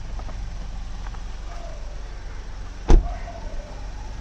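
Road vehicle on the move: a steady low rumble with one sharp knock about three seconds in.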